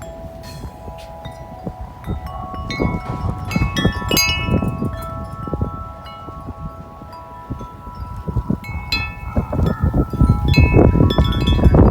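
Corinthian Bells 36-inch wind chime ringing in strong wind, its tubes struck again and again so that the tones overlap and sustain. Gusts buffet the microphone with a low rumble that grows heavier near the end.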